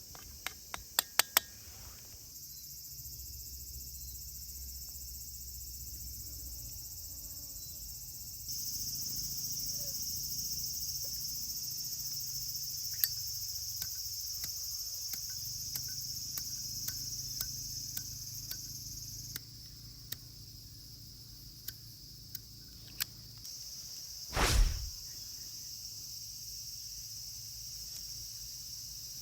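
A steady, high-pitched chorus of insects. It is dotted with small scattered clicks, and there is one louder knock about 24 seconds in.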